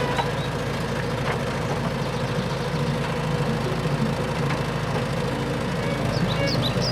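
A heavy engine idling with a steady low rumble. Short, high falling chirps come in near the end.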